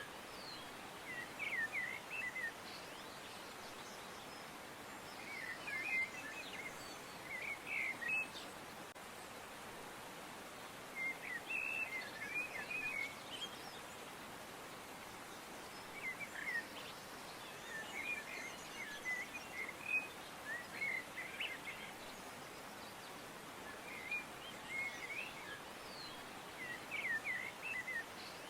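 Songbirds chirping in short clusters of quick high notes every few seconds over a steady outdoor hiss.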